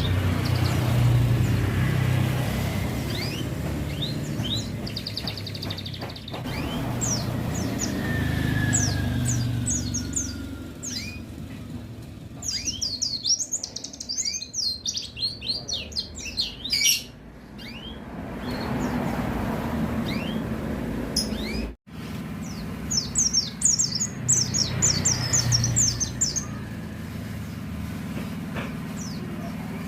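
White-eye (pleci) singing in quick runs of high, falling chirps, with traffic rumbling past now and then underneath.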